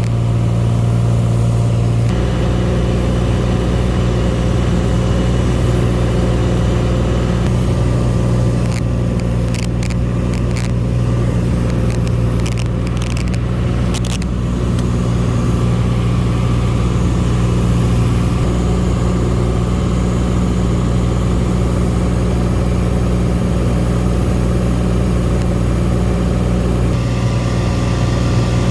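Cessna Skylane's piston engine and propeller running at a steady drone, with a few brief clicks midway.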